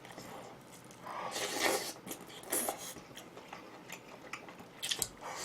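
A person chewing and eating at the microphone, with a few short crackly mouth sounds.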